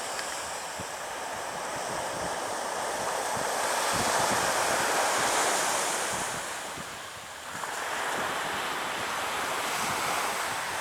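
Surf breaking and washing up a beach: a rushing hiss that swells about four seconds in, falls away around seven seconds, then builds again, with wind buffeting the microphone.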